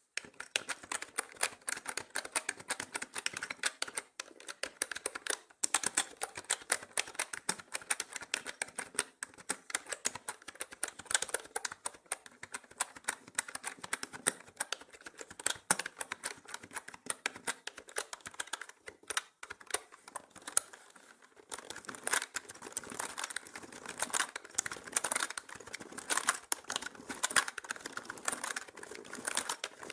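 Mechanical keyboard keys being typed on fast and continuously, a dense run of sharp clicks with a few brief pauses.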